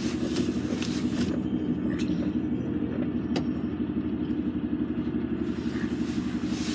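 Lorry's diesel engine running steadily at low revs while manoeuvring slowly, with a sharp click about three and a half seconds in.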